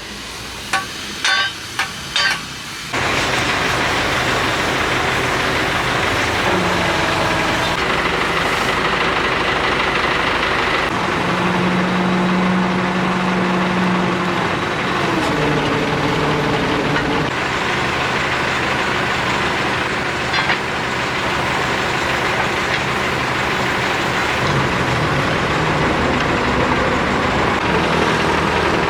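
Heavy diesel machinery running steadily, its tones stepping up and down in pitch now and then, after a few sharp metallic clanks in the first few seconds.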